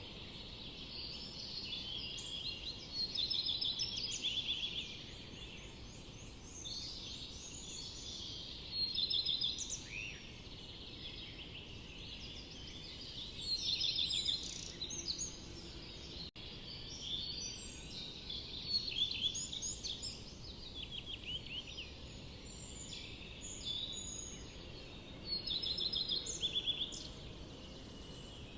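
Forest songbirds singing, several at once: overlapping phrases of high chirps and quick trills that come and go every few seconds, over a faint steady background hiss. The sound cuts out for a split second about halfway through.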